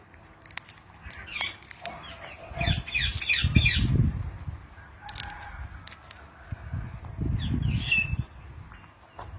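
Indian ringneck parrot giving short high calls and squawks, with two bursts of wing flapping, the first about two and a half seconds in and the second near the end.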